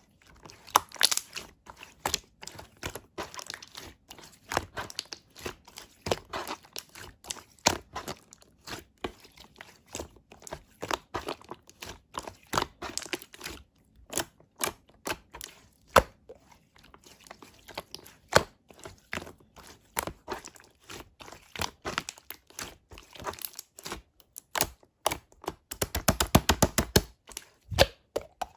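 Hands pressing and stretching slime, making a steady run of sharp crackles and pops, with a dense burst of crackling near the end.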